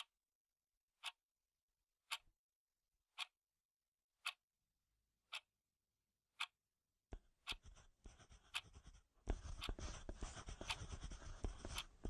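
A clock ticking faintly, one tick about every second. About seven seconds in, pens start scratching on paper, louder from about nine seconds in.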